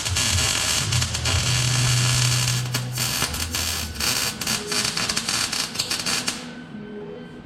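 Wire-feed (MIG) welder arc crackling and sizzling with a low steady buzz while welding stainless-steel exhaust tubing. The buzz drops away about three seconds in, and the arc stops about six seconds in.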